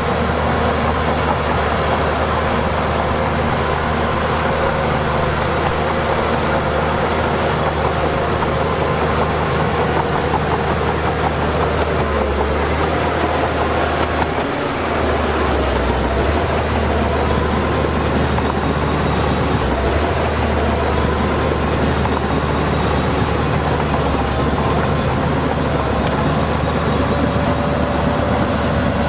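Heavy diesel earthmoving machinery running steadily, with a brief dip in level about halfway through.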